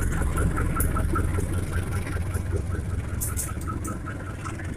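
A departing passenger train's coaches rolling slowly past, with a low rumble that fades as the train pulls away. A quick, regular high-pitched ticking runs beneath it, and a brief metallic hiss comes about three seconds in.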